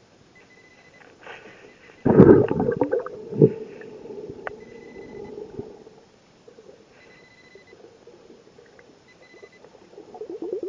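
Scuba diver's regulator underwater: a loud burst of exhaled bubbles about two seconds in, lasting about a second, and more bubbling near the end. Short high beeps sound four times in between.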